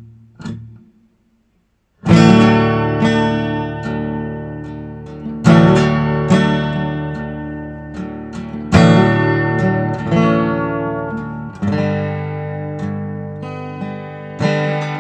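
Acoustic guitar intro to a slow song: after two light plucks and a moment of silence, chords are strummed and left to ring, a new chord struck every one to three seconds.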